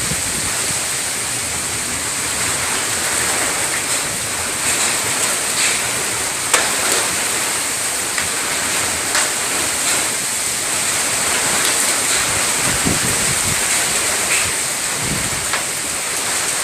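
Heavy rain pouring down: a steady hiss with scattered sharp ticks of hailstones striking.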